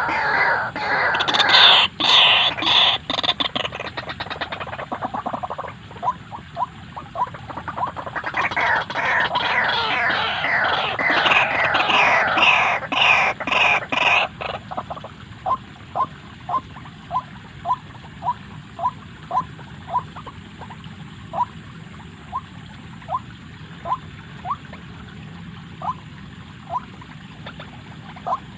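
White-breasted waterhen calls: two long bursts of loud, rapid chattering calls, then a run of single short notes, a little over one a second.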